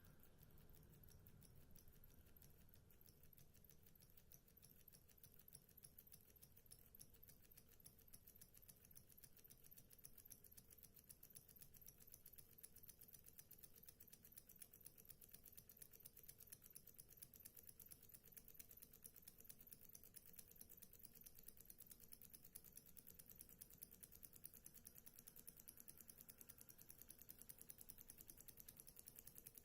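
Small model Stirling engine running smoothly, its mechanism giving a faint, fast, even ticking.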